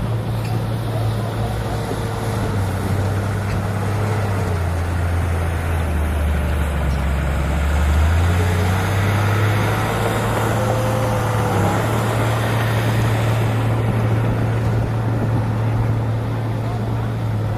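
Heavy diesel engine of earthmoving machinery running steadily under load. Its pitch sags for a few seconds in the middle, then climbs back.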